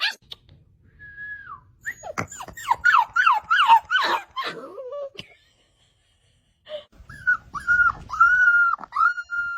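Dog whining in high calls: a short falling whimper, then a quick run of falling yelps, and after a pause a long drawn-out whine that dips in pitch several times.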